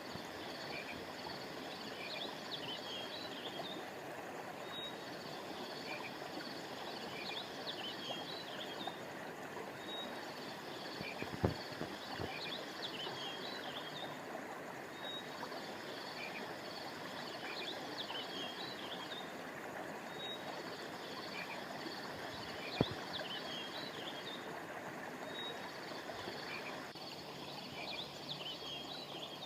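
Steady rush of flowing stream water under a chorus of high chirping calls, the calls coming in groups that repeat about every five seconds. Two sharp clicks stand out, about 11 and 23 seconds in.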